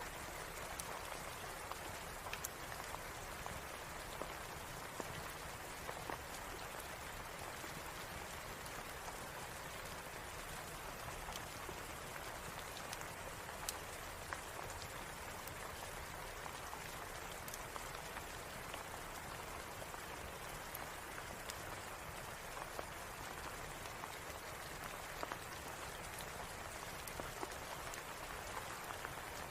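Steady rain, an even hiss and patter, with a fireplace crackling: scattered sharp pops and ticks over the rain.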